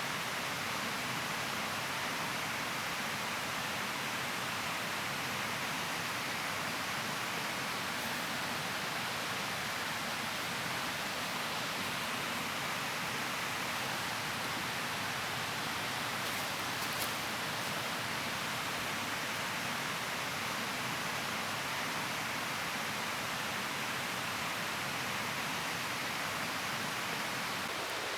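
Steady rushing of water, even and unbroken, with a faint click about halfway through.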